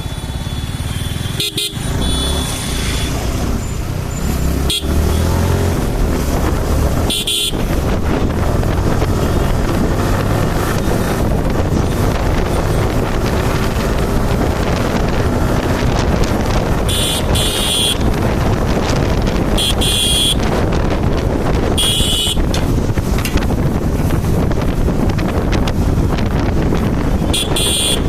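Motorcycle on the move with steady engine, road and wind noise. A high-pitched vehicle horn beeps briefly about six times, most of them in the second half.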